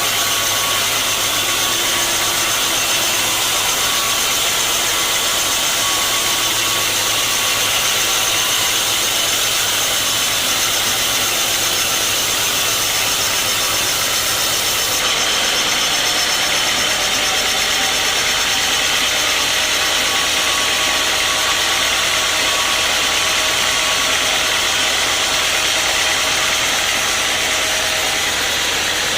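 Sawmill machinery running steadily: a continuous engine drone with a loud hiss, which changes abruptly about halfway through.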